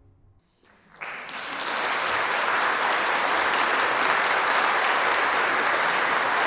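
Audience applause, breaking out about a second in after a brief hush, building quickly and then continuing as steady clapping.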